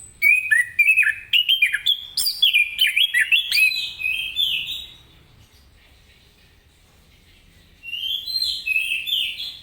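Chestnut-capped thrush (anis kembang) singing: a quick run of varied whistled and chirping notes that slide up and down, lasting about five seconds, then after a pause of a few seconds another song phrase near the end.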